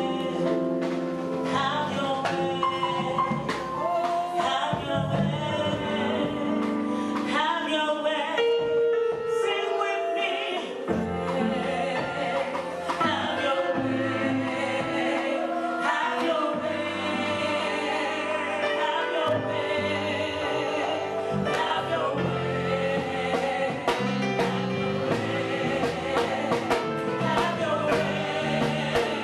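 Gospel music: voices singing a melody over instrumental backing with a steady bass line. The bass drops out briefly about nine seconds in and then comes back.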